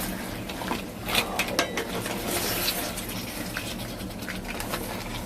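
Seafood and sauce bubbling in a cooking pot, with a few sharp clicks of a utensil against it.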